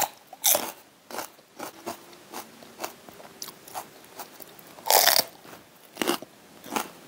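Crisp crunching and chewing as someone bites into a raw green chili pepper, with the loudest crunches right at the start and about five seconds in and softer chewing crunches between.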